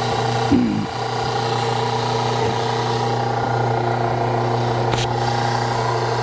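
Hydraulic log splitter running steadily under load as its ram presses the wedge into a knotty log, with a short sliding squeak about half a second in and a faint click near five seconds.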